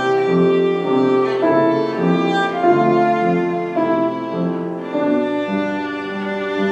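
Bowed string instrument playing a classical melody live, in held notes that change about every half second to a second.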